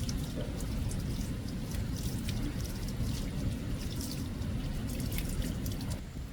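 Water dripping and trickling, many quick irregular drops over a steady low rumble.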